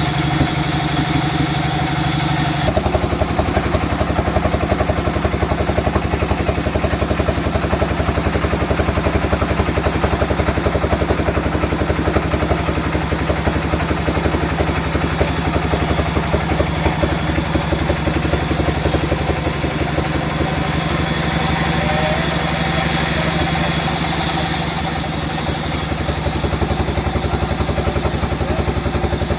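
Sawmill machinery running steadily with an engine-like drone. About three seconds in the sound changes and a fast, even pulsing sets in and carries on.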